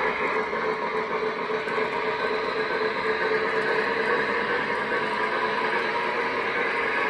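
O-gauge model train running steadily on the layout's track: a continuous rolling rumble and whir of wheels on rail and the locomotive's motor.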